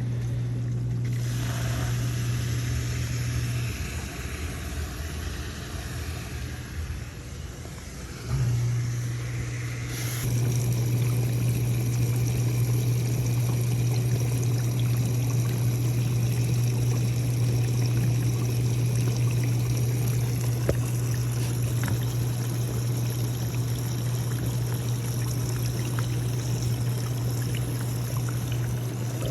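Dishwasher running a wash cycle: its pump motor hums steadily while water sprays and splashes inside the tub. The hum stops about 4 s in and starts again about 8 s in, and the water noise grows stronger about 10 s in and then holds steady.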